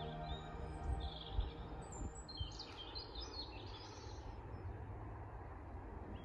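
Small birds chirping in short calls, mostly in the first half, over soft sustained background music.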